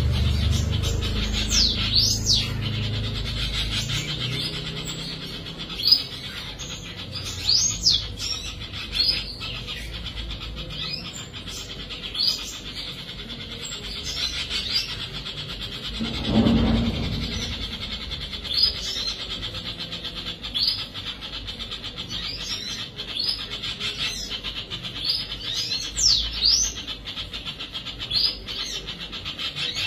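Birds chirping: many short high calls and quick whistles that dip and rise again, over a steady high hiss. A low rumble fades out over the first few seconds, and a brief low whoosh comes about 16 seconds in.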